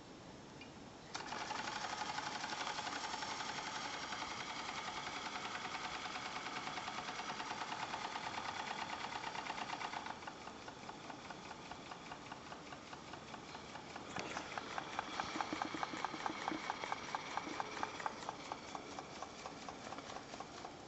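Small two-cylinder model steam engine running. A steady hiss of steam starts abruptly about a second in and stops about halfway through. A rapid, even ticking of the engine follows, louder for a few seconds and then easing off near the end.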